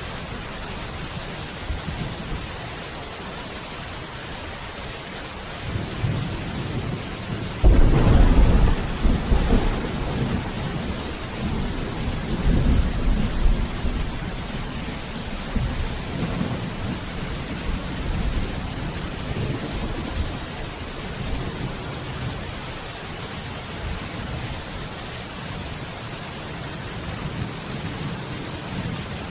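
Steady heavy rain hiss with thunder: a loud crack and low rumble breaks in about eight seconds in and rolls on with swells for several seconds before fading back under the rain.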